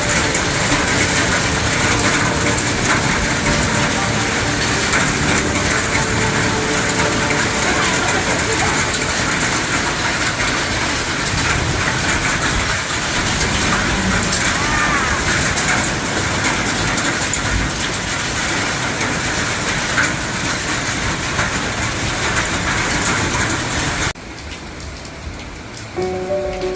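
Heavy rain pouring down in a storm: a loud, dense, steady hiss that drops away suddenly about 24 seconds in.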